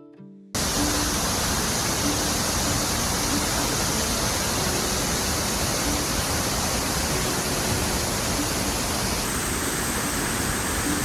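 Waterfall rushing: a loud, steady wash of falling water that cuts in abruptly about half a second in.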